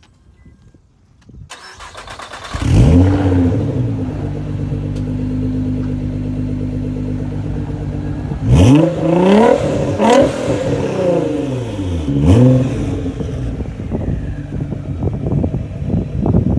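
A supercar's engine revving loudly through its exhaust. One rev comes in about three seconds in and settles into a steady held note. A quick series of sharp throttle blips follows about halfway through, then the engine eases back down.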